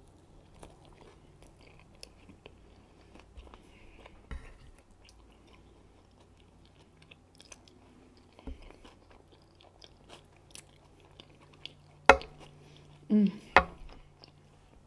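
Chewing and mouth sounds of someone eating a guacamole and candied bacon burger slider, with a few sharper, louder bites near the end.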